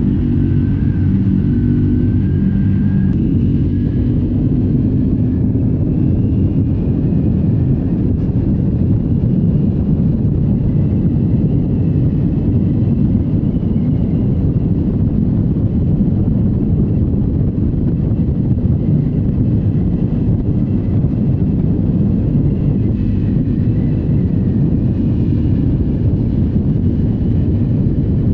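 Triumph Scrambler 400X single-cylinder engine on its stock exhaust, heard from the rider's position while riding on gravel. Its pitch shifts in steps during the first few seconds, then it holds a steady speed, with a constant rumble of tyres and wind underneath.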